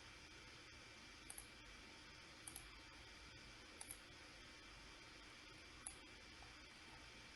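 Faint computer mouse clicks over steady low hiss: three quick double-clicks about a second apart, then a single click.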